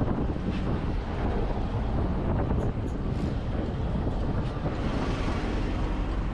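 Wind buffeting the microphone on an open boat deck: a steady low rumbling noise with no clear tones.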